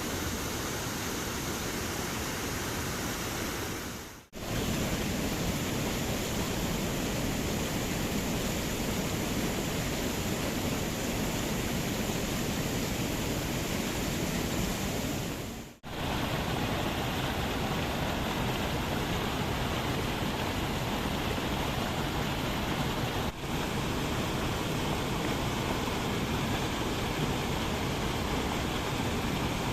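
Steady rushing of river water tumbling over rocks, a cascade's even noise. The sound breaks off sharply about four and sixteen seconds in and dips briefly near twenty-three seconds, its tone shifting a little after each break.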